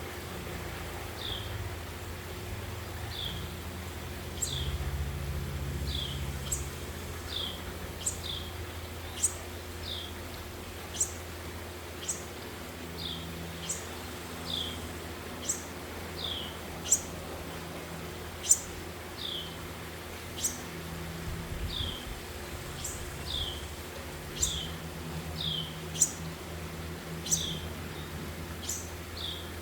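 Parent birds calling to their just-fledged young: a short call that dips slightly in pitch repeats about every one and a half to two seconds, alternating with sharp, higher shrill notes, which are the loudest. A steady low hum runs underneath.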